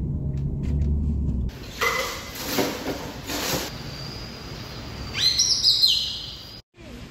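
Birds chirping and whistling, with a run of quick rising whistled calls about five seconds in.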